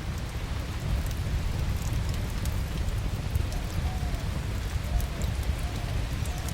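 A fireplace crackling steadily: sharp little pops and ticks over a low rumble. From about halfway through, a few faint short chirps of distant birds come in.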